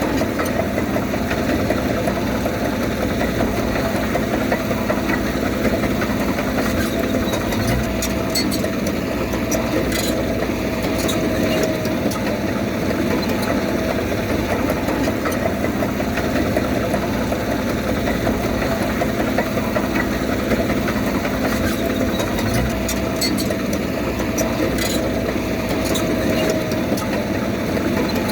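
Diesel engine of heavy earthmoving machinery running steadily, with a few brief clanks about eight to eleven seconds in and again near the end.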